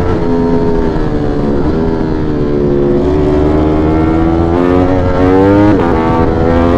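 V4 sport motorcycle engine under way, heard from on board, pulling through the gears. The engine note climbs, then drops at upshifts about a second and a half in and again near the end.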